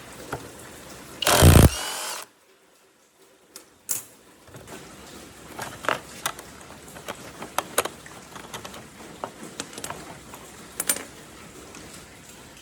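Workshop sounds: a short, loud burst of noise about a second in, cut off suddenly, then scattered clicks and taps of small parts being handled.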